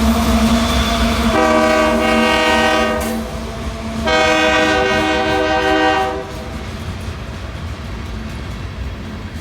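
Diesel locomotive air horn sounding two long blasts, each about two seconds, over the locomotive's steady engine rumble, which drops lower after the second blast.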